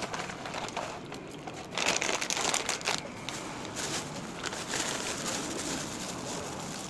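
Crinkling and rustling, like a plastic or paper wrapper being handled, with small crackles throughout and loudest from about two to three seconds in.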